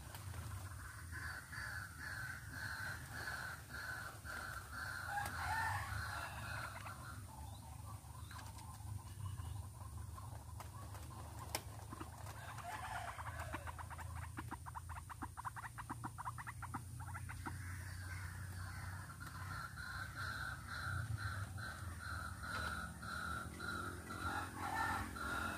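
White-breasted waterhen calls: a fast, repeated call that stops about seven seconds in, a rapid trill in the middle, then the repeated calling again near the end.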